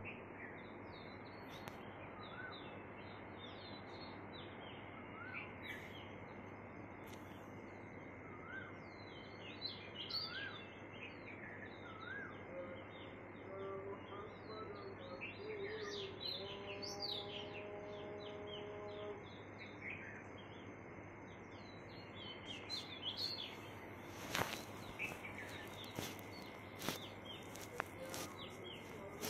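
Small birds chirping and twittering over a steady background hiss, with a short rising whistle repeated every few seconds. A few sharp clicks sound near the end.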